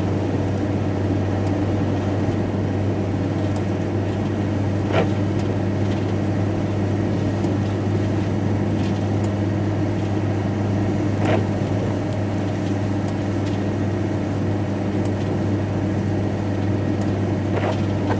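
Steady engine and road drone heard inside a lorry cab on the move, with a short swish about every six seconds.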